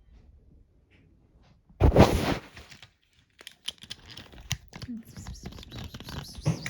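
A loud crackling, tearing noise about two seconds in, followed by a busy run of small clicks and rustles.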